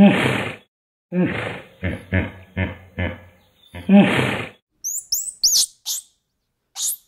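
Hippopotamus grunts and honks in a series: a long call at the start, a run of about five shorter grunts, and another long call about four seconds in. Then, after about five seconds, a squirrel monkey's short high chirps that glide up and down.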